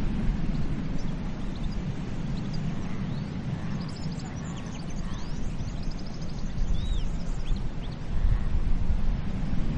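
Surf washing onto a beach, a steady rush that eases a little mid-way and swells again near the end, with birds chirping and whistling over it in short calls and rising and falling notes.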